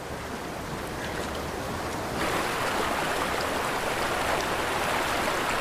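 Rushing river water: a steady hiss of flowing water that grows louder and brighter about two seconds in.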